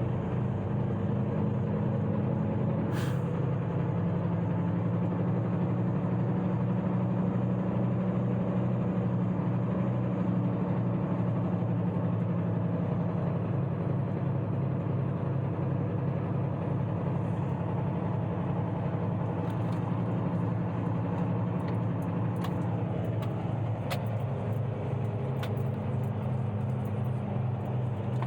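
Heavy truck engines idling with a steady low rumble. A short air hiss, like an air-brake release, comes about three seconds in, and a few small clicks follow later on.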